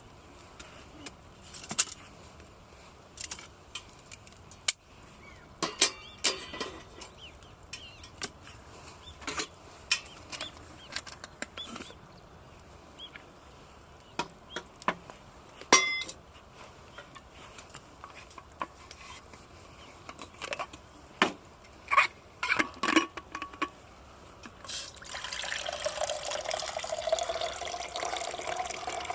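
Light clinks and knocks of camp gear being handled, then, about 25 seconds in, water pouring steadily into a container, its pitch rising slowly as it fills.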